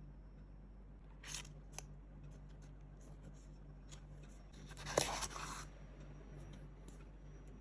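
Packaging handled while unboxing a GoPro Hero 11: a brief rustle and a click, then about five seconds in a sharp snap followed by half a second of scraping.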